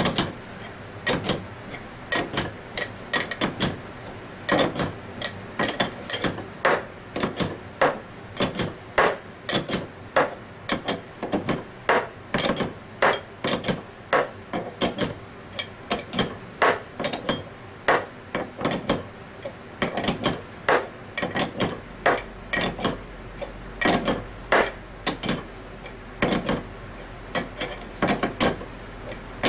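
Hammer tapping again and again on a metal bearing fixture, roughly two strikes a second with a short metallic ring each, driving a needle bearing into the scroll of an Anest Iwata ISP250 scroll pump until it seats.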